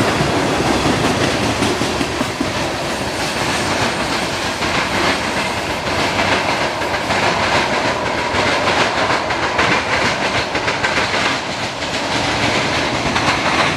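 Norfolk Southern freight train's tank cars and boxcars rolling by, with steel wheels clicking and knocking over the rail joints in a rapid clickety-clack over a steady rumble.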